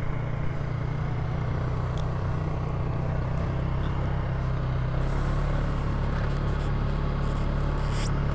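Polaris ATV engine running steadily while riding on a dirt road, with a slight change in its note about five seconds in.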